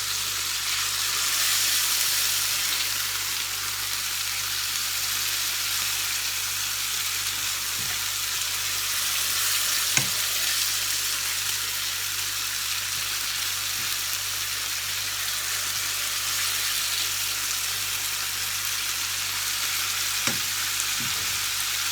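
Cuttlefish pieces and chermoula marinade sizzling in a hot frying pan as they are stirred, a steady hiss with a few brief knocks against the pan.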